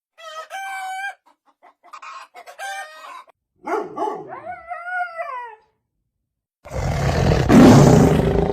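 Chickens clucking and a rooster crowing, in separate pitched calls, the crow rising and then falling. About two thirds of the way in a loud, noisy sound with no clear pitch begins.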